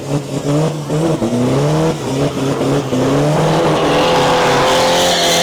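Drag-race car engines revving hard, their pitch climbing again and again, then held high and steady near the end with a rising hiss over them.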